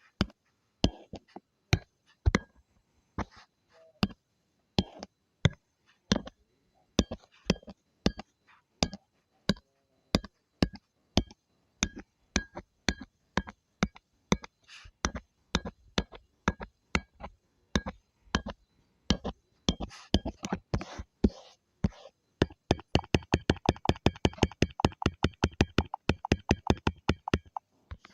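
Repeated sharp taps of a drawing tool on the drawing surface, one every half second or so, then a quick run of about six taps a second near the end.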